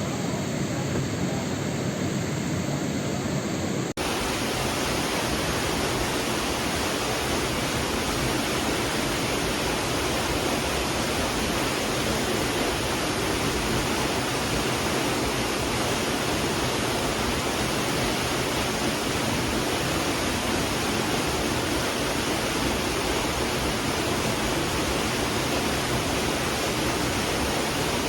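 Steady rushing water, an even, unbroken roar of noise across all pitches. About four seconds in it cuts abruptly from a slightly different noise to this smoother one.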